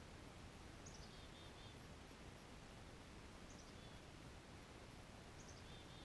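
Near silence with faint outdoor background noise, and a small bird calling faintly three times: each call a quick falling run of high notes followed by a few short lower notes.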